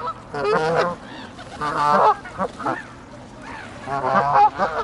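Barnacle geese honking: three short bouts of repeated calls.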